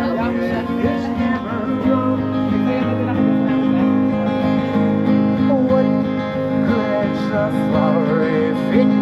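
Country-style song with a strummed acoustic guitar and a singing voice.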